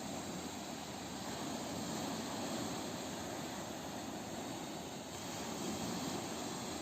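Ocean waves washing on a shore: a steady rush of surf that swells and eases gently in loudness.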